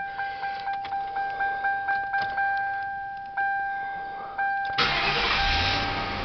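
The Crown Victoria's two-tone dashboard warning chime dings about four times a second, then slows to a few single dings. About five seconds in, the 4.6-litre V8 cranks and catches with a loud burst, settling toward idle.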